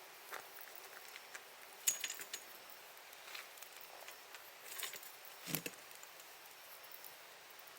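Wood campfire crackling: scattered sharp pops and snaps over a steady hiss, with a duller knock about five and a half seconds in.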